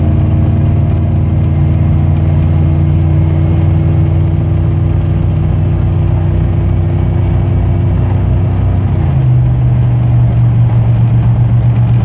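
A 1992 Chevy 3500 pickup's 5.7-litre (350) V8 running under load through a cat-deleted, high-flow exhaust while driving. The engine note holds steady, then drops in pitch about nine seconds in and settles into a lower, throbbing beat.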